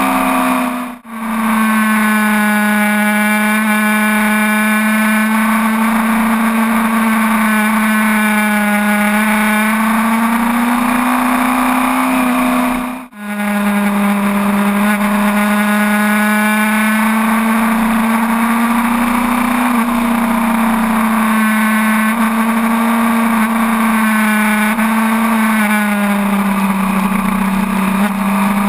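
Sport motorcycle engine running at a fairly steady, high pitch while riding, drifting slightly up and down with throttle. The sound cuts out for a moment twice, about a second in and again about thirteen seconds in.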